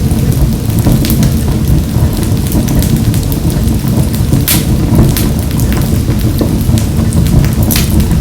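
Wood fire burning in a wood-burning stove: a steady low rumble of flames with scattered sharp crackles and pops, a few louder ones about a second in, at about four and a half seconds, and near the end.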